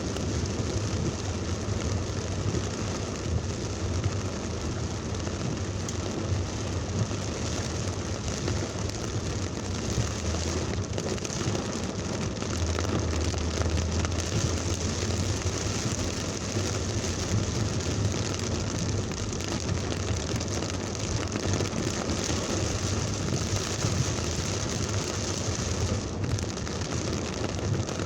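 Heavy thunderstorm rain pouring steadily, with a steady low rumble underneath.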